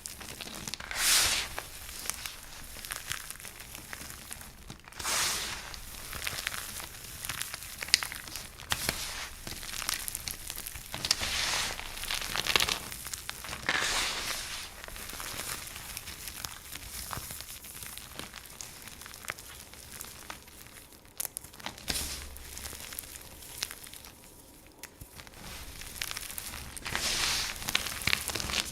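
Dry soap being crunched: a run of crisp, crackling crunches with many small clicks between them and a few longer, louder crunches.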